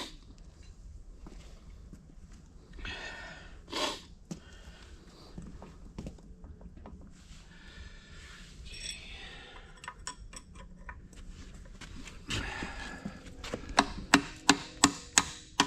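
Scattered knocks and clanks of metal parts and tools being handled during corn head gearbox work, with a sharper knock about four seconds in. Near the end a ratchet wrench starts clicking, about four sharp clicks a second.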